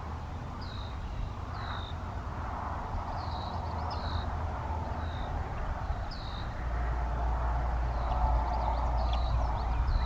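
Birds chirping, with short falling calls every second or so, over a steady low rumble that gets louder about two-thirds of the way in.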